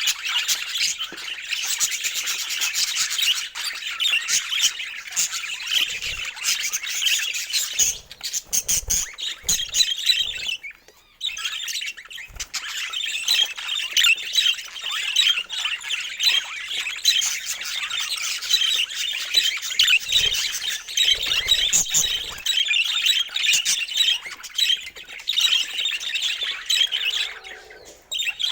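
Budgerigars chattering and warbling, a dense run of fast chirps and squawks with a brief lull about a third of the way in.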